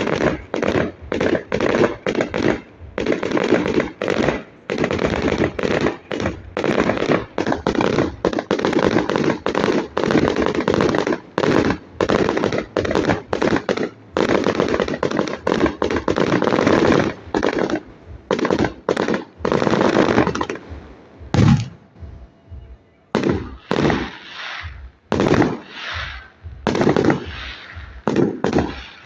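Fireworks display going off in a rapid barrage of sharp bangs and crackles, several a second. It thins to a few scattered bangs about two-thirds through, then builds back up.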